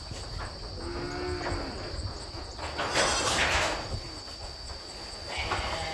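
Goat giving a low, drawn-out bleat about a second in, followed by a louder, rough noisy burst around three seconds in.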